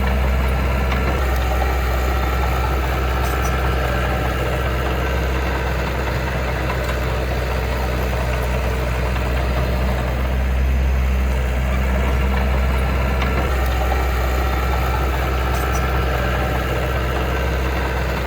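Heavy diesel engine of earth-moving machinery running steadily at an even speed, a low hum that holds level throughout.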